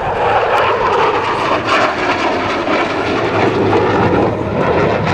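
Fixed-wing aircraft engine running, a steady, loud drone.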